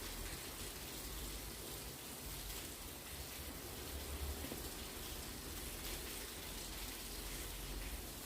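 Fairly heavy rain falling steadily, an even hiss of drops, with a low rumble underneath.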